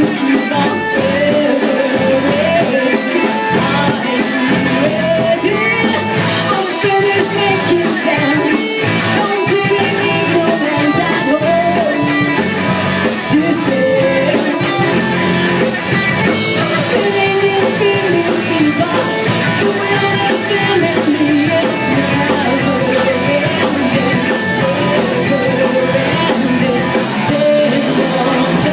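A rock band playing live: guitar and drum kit with a voice singing the melody, going on without a break.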